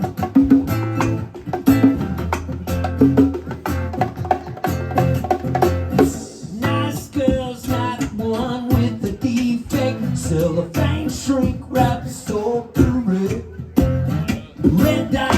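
Live acoustic band music led by plucked guitar over a low bass line, in an instrumental stretch without sung lyrics.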